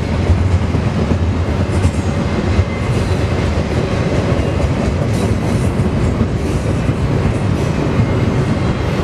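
Freight train of double-stack container cars rolling past: a loud, steady rumble of steel wheels on the rails, with faint clacks running through it.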